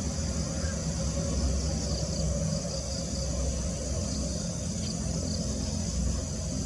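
Outdoor ambience: steady high insect buzzing over a constant low rumble, with a few short high chirps in the middle.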